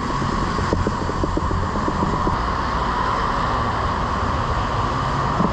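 Steady hum and rumble of an underground metro station platform, with a run of faint short ticks in the first couple of seconds.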